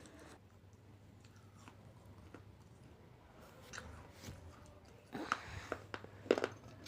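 Chewing and biting sounds of someone eating: scattered short smacks and crunches around the middle, then a denser run of louder ones in the last two seconds.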